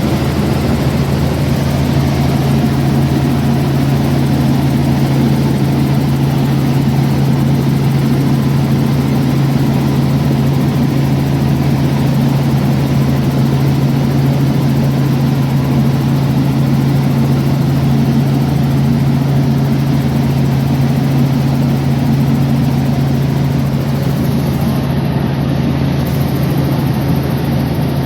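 Light aircraft's piston engine and propeller running steadily close by, a loud low hum that holds level throughout.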